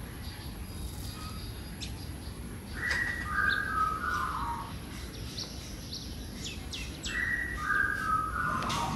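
A bird singing a short falling whistled phrase twice, about four seconds apart, over a steady low background hiss.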